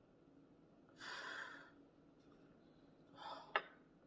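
A person breathing out sharply through the nose while eating: one breath about a second in, a second shorter one near the end, followed by a small click.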